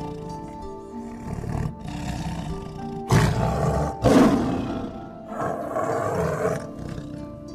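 A big cat roaring over soft background music: two loud roars about three and four seconds in, then a quieter, longer one near the end.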